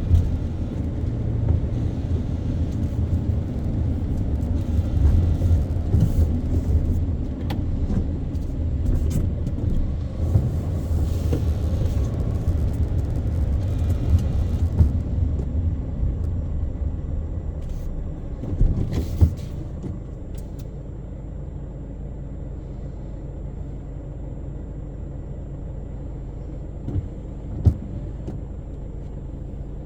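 Car driving in city traffic: a steady low engine and road rumble that eases off about two-thirds of the way through, with a few short knocks.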